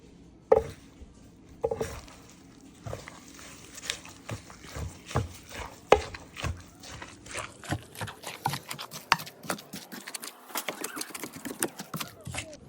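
Kitchen utensils knocking and tapping while food is being prepared. The first few knocks are scattered, then from about seven seconds in comes a quick run of about four taps a second.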